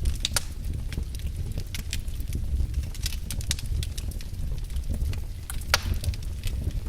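Firewood burning in a fireplace: irregular sharp crackles and pops over a steady low rumble of the fire, with one louder pop near the end.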